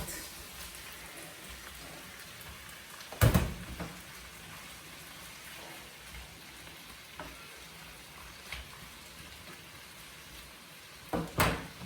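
Bell peppers frying in oil in a pan, a steady sizzle, with a loud sharp knock about three seconds in and a few more knocks near the end.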